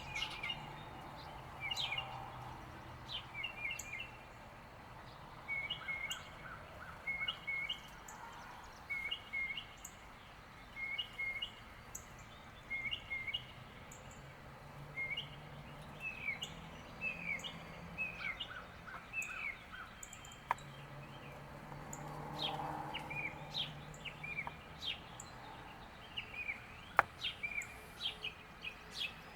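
Several songbirds chirping around a backyard feeder: short paired chirps repeat at a steady pace, with quick down-slurred calls in between. A low hum comes and goes in the background, and a few sharp clicks come near the end.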